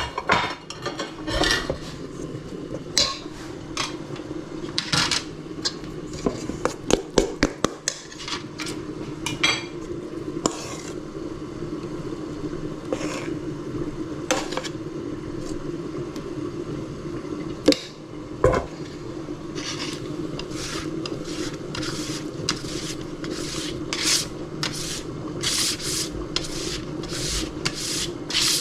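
Kitchen utensil scraping and clinking against a pot or pan, working the freshly cooked dumpling noodles, with repeated rubbing strokes about once a second in the second half. A steady low hum runs underneath.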